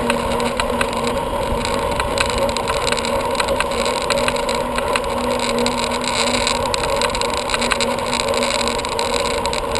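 Steady wind and rolling noise on a bicycle rider's camera microphone while riding, with a constant low hum underneath.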